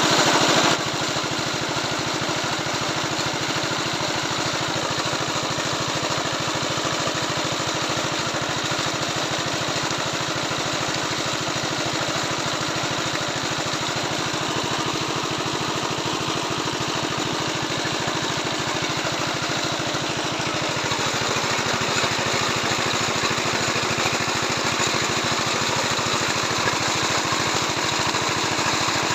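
Engine-driven irrigation water pump running steadily with a fast, even firing beat, getting a little louder about 21 seconds in.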